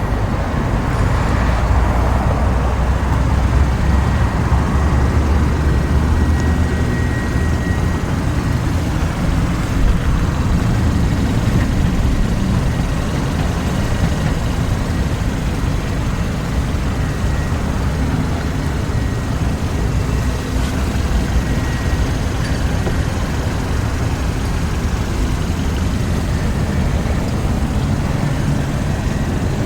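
Steady low rumble of background road traffic, with no distinct events.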